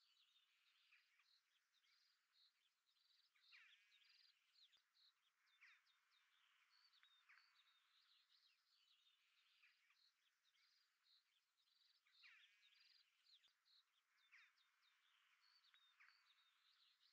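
Near silence, with very faint bird chirps and short trills going on throughout.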